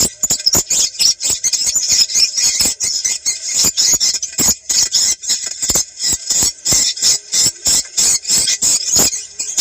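Recorded swiftlet calls: a dense, continuous twittering of many birds, with rapid high chirps and clicks packed closely together. It is a lure recording, played to draw swiftlets in when testing a site for swiftlet farming.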